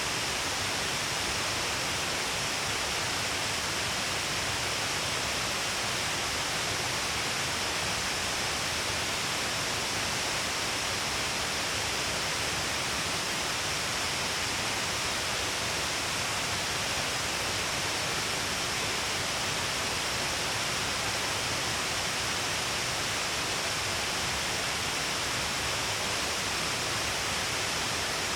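Shiraito Falls, a wide curtain of many small falls along a cliff, giving a steady, even rush of falling water and spray with no change in level.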